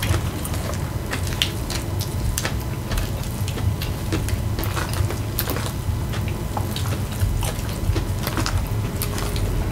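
Close-miked wet chewing and lip smacks while eating taco salad, a dense run of small irregular clicks and squishes over a steady low hum.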